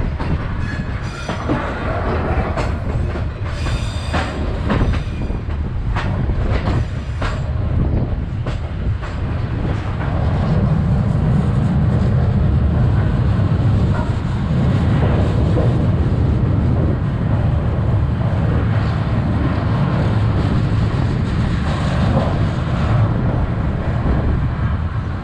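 Passenger train running on the rails: a steady low rumble, with wheels clicking over rail joints in the first several seconds, and a louder, even rumble from about ten seconds in.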